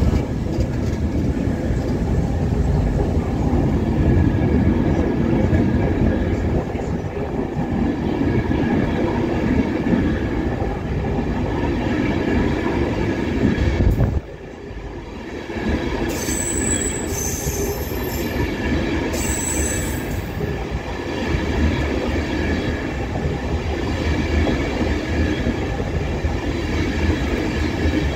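A train running on the rails, a steady low rumble with a high wheel squeal held over it. The sound drops away abruptly about halfway through, then the rumble and squeal build again.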